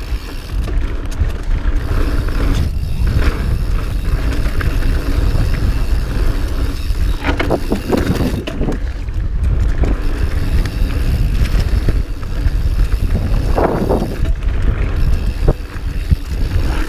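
Wind buffeting an unshielded GoPro microphone on a moving mountain bike, a steady low rumble mixed with the bike's rolling noise over rough trail. A few short louder noises stand out near the middle and again about three-quarters through.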